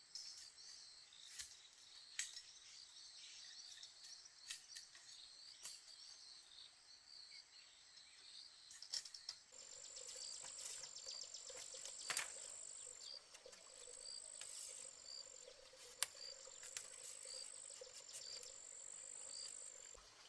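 Insects trilling steadily at a high pitch, with small chirps and scattered light clicks and taps. About halfway through, a second high trill joins in repeated stretches of a second or two.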